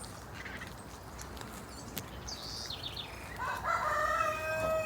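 Birds calling: a few short, high chirps about two seconds in, then one long, held call of about a second and a half near the end.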